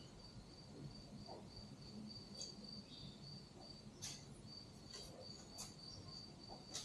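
Faint cricket chirping steadily in a quiet background, with a few soft clicks.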